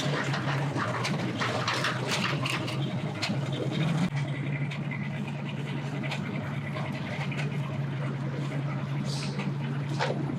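A boat engine running steadily at low speed, heard as an even low hum, with scattered clicks and rustling noise over the first few seconds.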